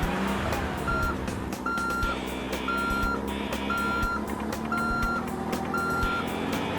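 A truck's reversing alarm beeping six times, about once a second, over a low engine hum.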